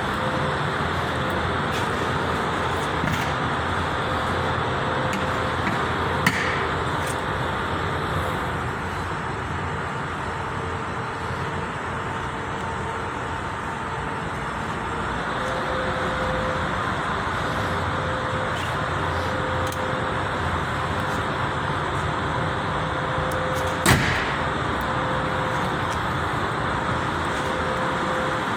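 Steady road-traffic noise, with two short sharp clicks, one about six seconds in and one near the end.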